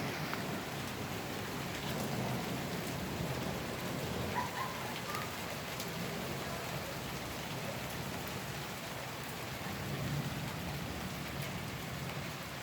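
Steady rain falling and pattering on surfaces, with scattered sharp drip ticks.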